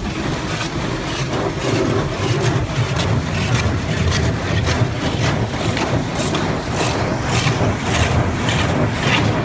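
High-pressure water jets of a Futura Revolution touch-free car wash spraying against the car, heard from inside the cabin: a loud spray hiss that pulses about two to three times a second over a steady low rumble.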